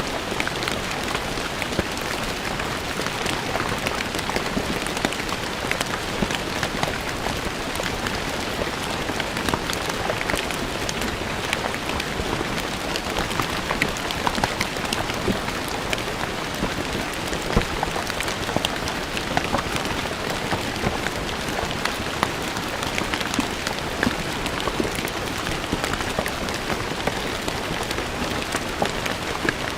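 Steady rain falling on stone paving, with many individual drops pattering and splashing over an even hiss.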